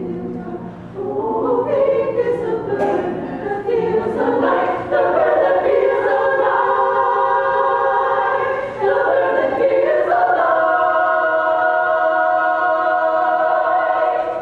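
Choir singing in close harmony. The chords move, then after a brief breath about nine seconds in the choir holds one long sustained chord until it is released at the end.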